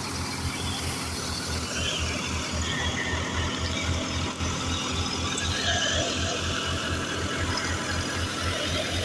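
Tractor diesel engine running a wheat thresher, with a steady low beat of about five pulses a second. High wavering squeals sound over it for a few seconds.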